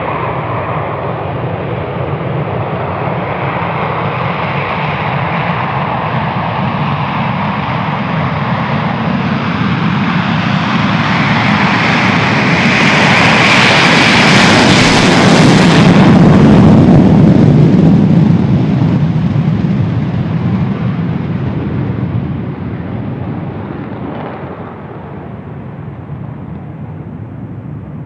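Jet engines of a B-1 Lancer bomber passing by. The noise builds steadily, is loudest and harshest a little past the middle, then drops to a lower, duller sound and fades.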